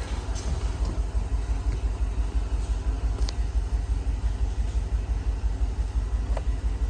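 2004 Chevy Tahoe's 5.3-litre V8 idling steadily, with an even low pulsing rumble.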